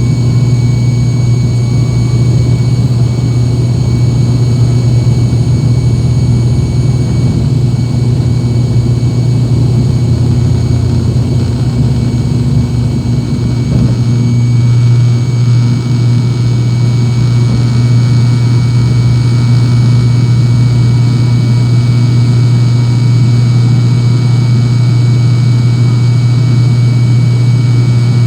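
ATR 72's twin Pratt & Whitney PW127 turboprops and propellers at high power, heard from inside the cabin as a loud, steady low propeller drone. A rougher rumble underneath eases about halfway through.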